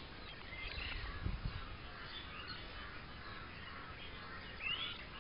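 Faint birds calling in short, scattered chirps over quiet outdoor background noise, with a brief low rumble about a second in.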